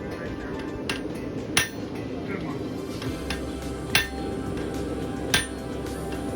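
Blacksmith's hammer striking metal on an anvil: four sharp, ringing blows at uneven intervals, over a steady low background hum.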